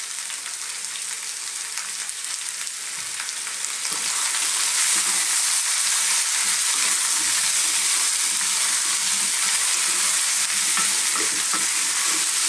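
Parboiled sweet potato chunks and onions sizzling as they fry in a non-stick pan, stirred and turned with a wooden spoon. The sizzle grows louder about four seconds in and then holds steady.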